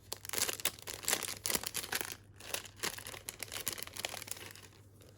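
Packaging crinkling and rustling as it is handled, a dense run of small crackles that thins out near the end.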